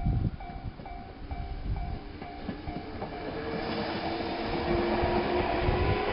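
Japanese level-crossing bell ringing in an even, quick ding about two and a half times a second, then from about three and a half seconds in a Meitetsu electric train comes onto the crossing, its rumble and wheel noise growing louder over the bell.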